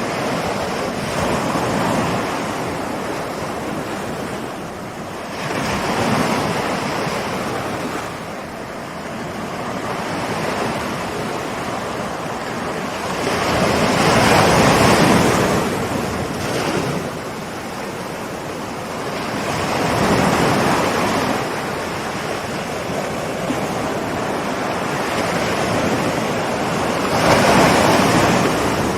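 Ocean waves rolling in and breaking on the shore, a continuous wash of surf that swells and ebbs every few seconds, with two bigger breakers about halfway through and near the end.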